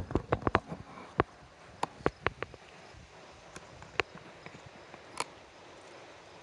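Footsteps on rock: hard, irregular clicks and knocks of boots and loose stones. They come thick for the first couple of seconds, then thin out to a few single clacks.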